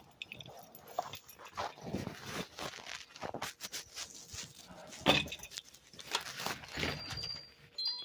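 A dog moving about and making small sounds, with irregular rustling and knocks; the loudest knock comes about five seconds in.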